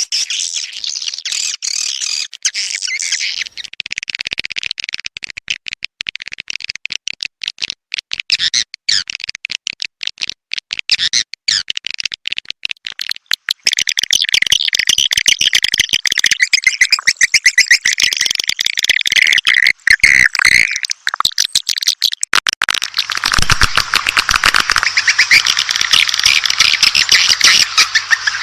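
Swiftlet calls: a dense stream of rapid chirps and twittering, a call recording of the kind played from a swiftlet house to lure swiftlets in to roost and nest. The mix changes about halfway through and again near the end, where it grows louder and fuller.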